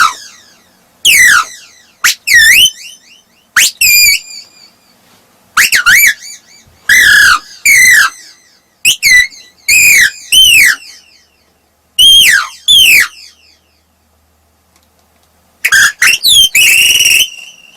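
A human mimic imitating a parrot with his voice: a run of short, shrill calls that swoop down and back up in pitch. About two-thirds of the way through there is a pause of about two seconds, then a last few calls near the end.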